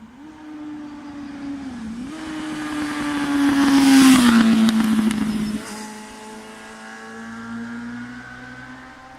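Honda CBF600's inline-four engine, fitted with an aftermarket Akrapovic-style slip-on exhaust, riding past at a steady throttle. The engine gets louder to a peak about four seconds in, its pitch drops as it passes, and it then fades away.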